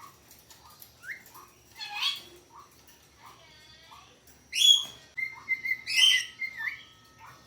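Green-cheeked conure chirping and squawking: soft short chirps about twice a second, with louder calls about two seconds in and twice in the second half, one with a held whistle.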